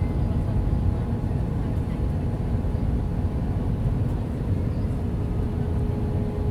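Airbus A320 cabin noise in flight on descent: a steady low rumble of the IAE V2500 engines and air rushing past the fuselage, with a faint steady hum over it.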